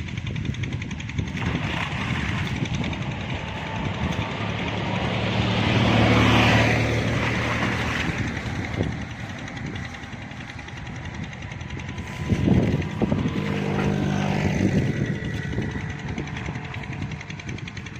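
An engine running, with a low hum that swells to its loudest about six seconds in and again around thirteen seconds.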